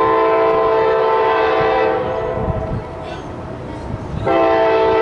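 Locomotive air horn sounding: a long blast that stops about two seconds in, then a second blast starting near the end, over the low rumble of the train.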